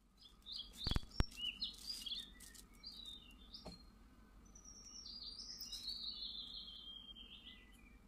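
Birds chirping and tweeting in quick, pitch-gliding notes, with two sharp clicks about a second in.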